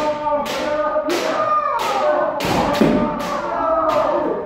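Kendo practice: bamboo shinai strikes and stamping footwork landing in quick, overlapping succession, with long kiai shouts from several practitioners at once.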